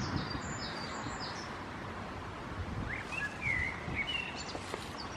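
Small birds chirping a few times, short rising and falling chirps about a second in, around three seconds in and near the end, over a steady outdoor background hiss.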